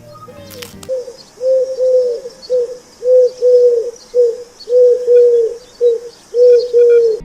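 A bird calling: about a dozen short, clear hooting notes, each rising and falling, mostly in pairs, starting about a second in.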